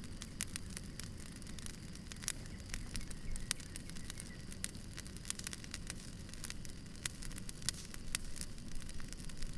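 Campfire burning and crackling, with frequent irregular sharp pops over a steady low rush.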